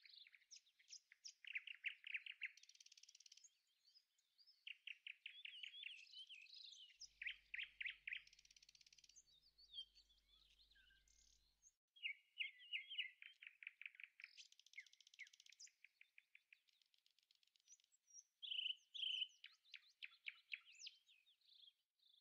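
Songbirds chirping and singing faintly, in quick runs of repeated high notes broken by short pauses.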